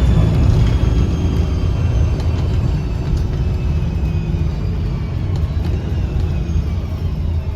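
Interior sound of a 2009 Gillig BRT 40-foot transit bus under way: a steady low rumble from its diesel engine and Voith transmission. High whining tones slowly fall in pitch over it, with a few faint rattles.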